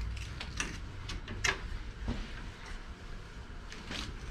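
Steel strip being bent in a hand-operated bench-top bender: a few scattered metal clicks and knocks over a low steady hum.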